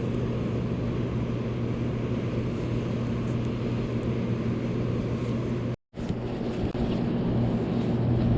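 A steady low motor hum over a noisy rush, cut off completely for an instant just before six seconds in.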